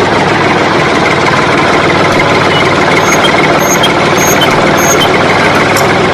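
An engine running steadily and loudly, with no change in speed. Faint short high beeps repeat about twice a second in the middle.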